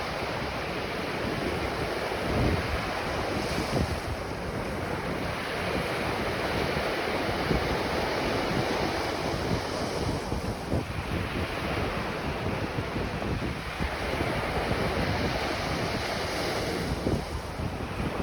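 Ocean waves breaking on a beach, the surf swelling and easing every few seconds, with wind buffeting the microphone.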